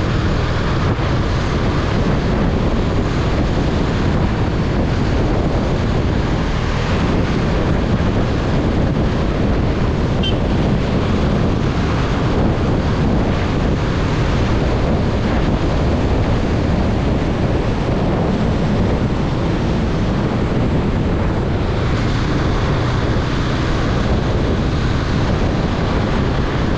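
Steady rush of wind buffeting the microphone on a moving motorcycle, with road noise underneath.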